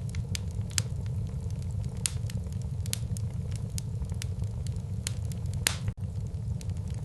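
Wood fire burning in a fireplace: a steady low rumble of flames with irregular sharp crackles and pops, the loudest pop near the end. The sound drops out for an instant about six seconds in.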